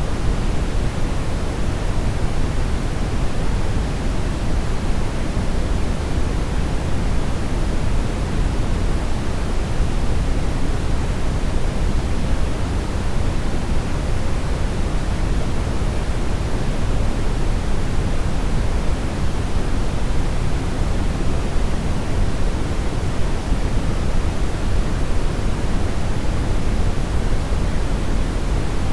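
Steady brown noise: an even, unchanging hiss weighted toward the low end, with no tones or events.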